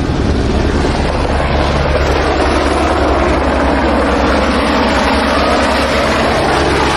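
Helicopter engine and rotor running loudly and steadily, heard from inside the cabin.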